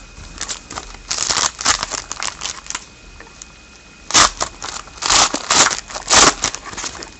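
A trading card pack's wrapper being torn open and crinkled, in a run of soft rustles and then several louder, sharper crackles in the second half.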